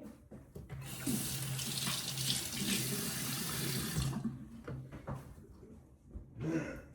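Sink faucet running for about three seconds, then shut off abruptly.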